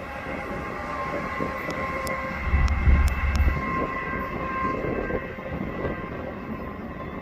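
BNSF double-stack intermodal freight train rolling past: steel wheels on rail with a steady ringing tone and scattered sharp clicks. A brief low rumble swells about three seconds in.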